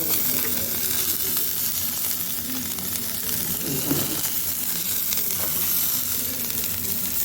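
Hanwoo beef sizzling steadily on a hot grill, a constant crackling hiss of fat and juices frying.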